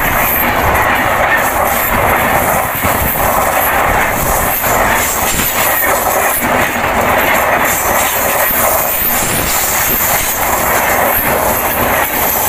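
Indian Railways passenger train passing close by at speed: a loud, steady rumble of the coaches' steel wheels on the rails, with irregular clacks over the rail joints.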